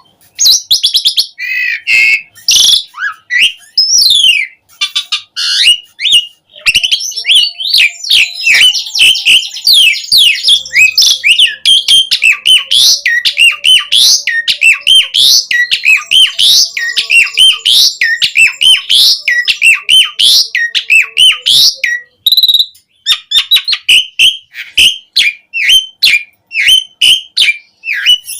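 Asian pied starling (jalak suren) singing loudly in full song: a fast, varied stream of whistles, chirps and gliding notes strung together, with a short pause about three-quarters of the way through.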